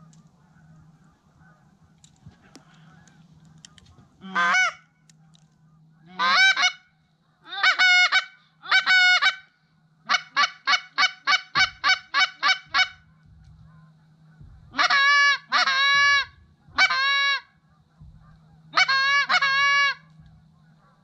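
A hand-blown waterfowl call sounding loud, nasal honking quacks close by: a few single and paired notes, then a quick run of about ten notes at roughly four a second, then two more short groups. The hunter is calling to ducks flying overhead.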